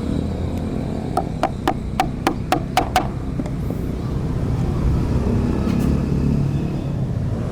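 A hammer taps quickly about eight times, roughly four a second, for about two seconds starting a second in. Each strike has a short ring. Under it runs a steady low rumble of traffic.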